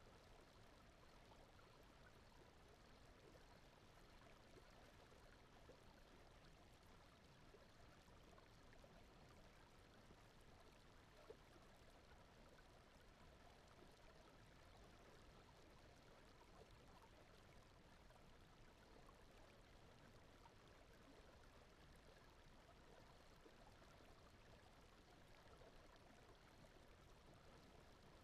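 Very faint, steady brown noise, an even rushing hiss like distant running water, with one faint tick about eleven seconds in.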